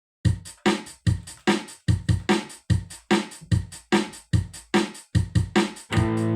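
Rock song intro: a steady drum beat on its own, about two and a half hits a second, with a sustained guitar chord coming in near the end.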